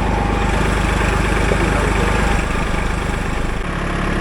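Kubota L2501 compact tractor's three-cylinder diesel engine running steadily; its note shifts about three and a half seconds in.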